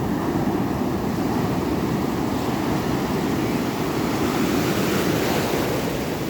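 Ocean surf: a steady low rush of waves, with the hiss of a wave washing in swelling from about two seconds in and easing near the end.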